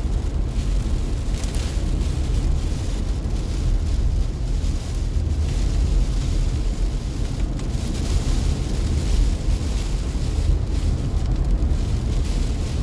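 Steady low rumble of a car driving on wet roads, heard from inside the cabin, with an even hiss of rain and road spray on the car.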